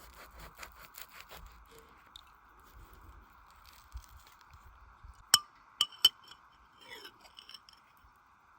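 Three sharp, ringing clinks of hard utensils against metal or glass about five and a half to six seconds in, with lighter ticking and scraping before and after, over a faint steady hiss.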